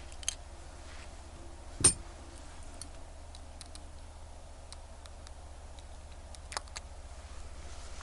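A few sharp clicks of small tools handling a wristwatch, the loudest about two seconds in and another near six and a half seconds, over a steady low hum.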